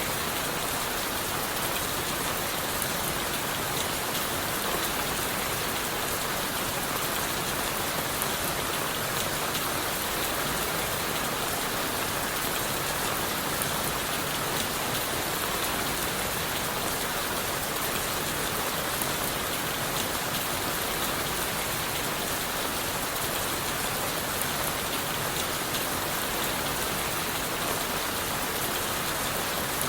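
Steady rain falling: an even, unbroken hiss with many small drop ticks throughout.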